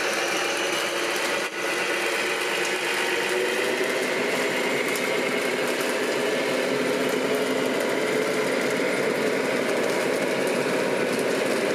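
Small electric motors and gearboxes of radio-controlled model trucks running, a steady mechanical whine with a slight dip about a second and a half in.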